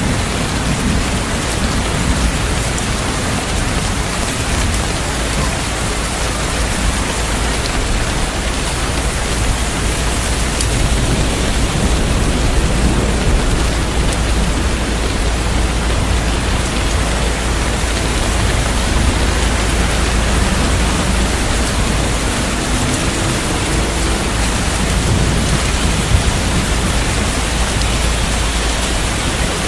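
Heavy rain falling steadily, an even hiss with a deep low rumble of thunder underneath.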